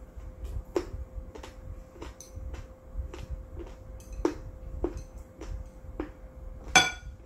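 Close-miked eating of bibim-myeon noodles: wet mouth clicks and smacks about twice a second while chewing. Near the end comes a louder, sharper click with a brief ring.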